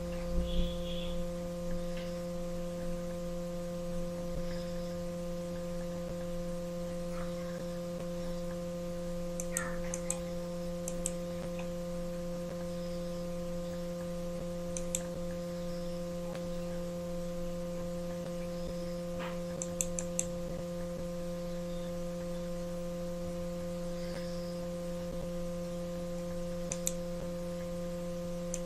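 Steady electrical mains hum with a few faint computer clicks, in small clusters about ten, fifteen, twenty and twenty-seven seconds in.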